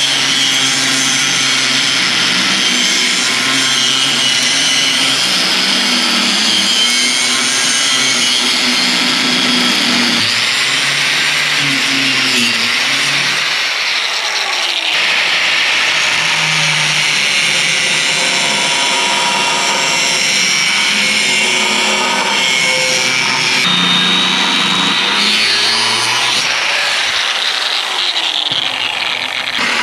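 Power tool cutting steel plate, running steadily, with abrupt changes in tone twice.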